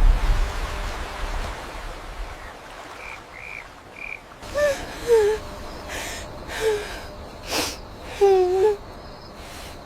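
A heavy whoosh at the start, then a run of short breathy gasps and strained cries from a person's voice, several of them between about halfway and near the end.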